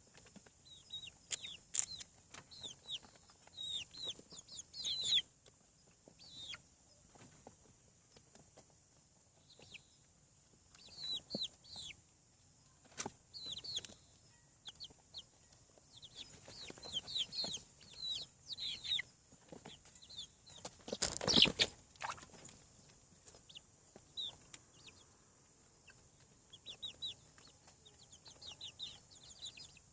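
Young chickens peeping in clusters of short, high, falling calls, with quiet gaps between them. About two-thirds of the way through comes one loud, noisy rustle, about a second long.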